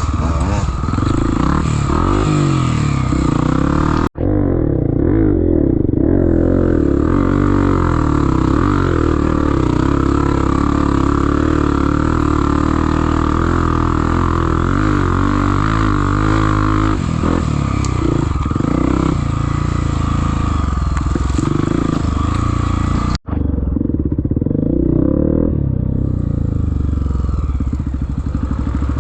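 Off-road trail motorcycle engine running under load, its pitch rising and falling as the throttle changes. The sound cuts out completely twice for a split second.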